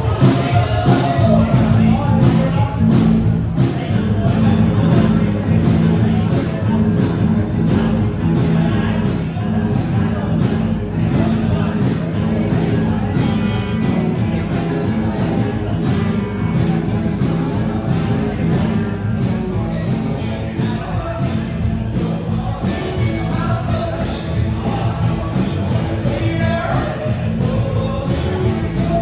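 Live rock band playing a song with singing over a steady drumbeat; about three-quarters of the way through, the cymbal or hi-hat playing gets busier.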